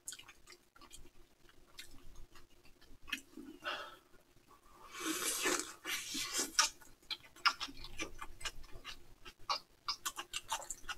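Close-up eating sounds: chewing and mouth smacks from people eating soft bread-roll mini hamburgers, with sips of cola. Heard as soft, irregular clicks, a little louder for a moment about halfway through.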